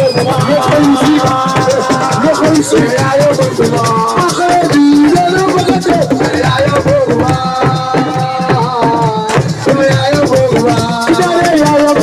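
Assiko band playing: a singer's voice over dense, fast percussion.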